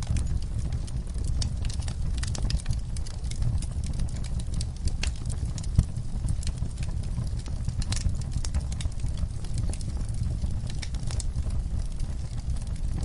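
Wood fire burning in a fireplace: irregular crackles and pops over a steady low rumble of the flames, with one sharper pop a little before halfway through.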